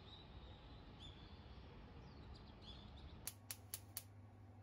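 Faint bird chirps over outdoor background noise. About three seconds in, this gives way to a quiet room with a low hum, and four sharp clicks follow in quick succession.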